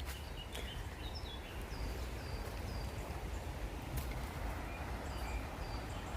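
Small birds calling in short, high chirps that fall in pitch, repeated every half second or so, over a steady low rumble.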